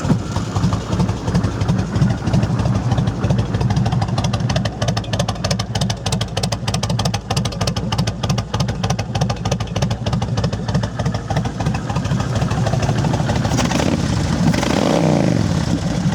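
2006 Kawasaki Vulcan 1600 Classic's liquid-cooled V-twin running through aftermarket Cobra exhaust pipes, with a steady pulsing idle and a couple of throttle blips near the end.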